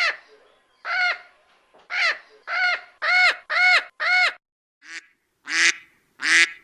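A bird giving about ten short honking calls in a row, each rising and falling in pitch; the last three are harsher.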